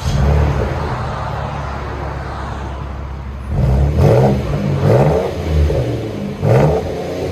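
2013 Lincoln MKX's 3.7-litre V6 running through a true dual exhaust with the muffler deleted and the factory resonator kept: a steady idle, then several quick throttle blips in the second half.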